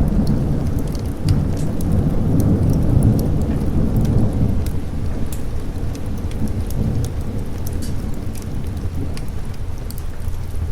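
Rolling thunder rumbling low and loud at the start, slowly fading over the first few seconds, over steady heavy rain with scattered sharp drop clicks.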